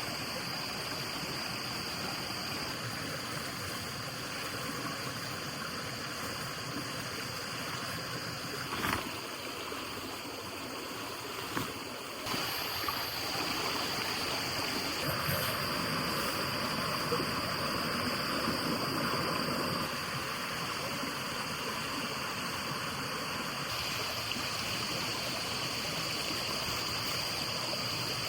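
Flowing water rushing steadily, as of a forest stream, with a thin steady high-pitched tone above it. A couple of short knocks come about nine and twelve seconds in.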